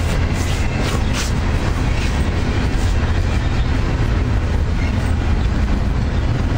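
Double-stack container train's well cars rolling past, a steady loud rumble of steel wheels on the rails with a few faint clicks from the rail joints in the first second or so.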